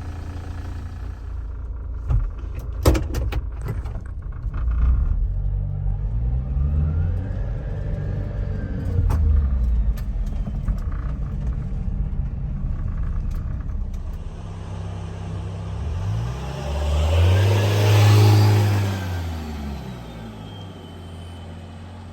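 Subaru Sambar truck's small engine running and being revved several times, its pitch climbing and falling with each rev, with a few sharp clicks a couple of seconds in. The longest, loudest rise and fall comes near the end.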